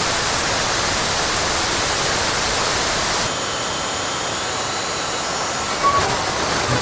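Analogue television static: steady hiss of a set tuned between channels. About a third of the way in the hiss drops a step and turns duller, and faint steady tones of a weak signal come through it, with a short tone blip near the end.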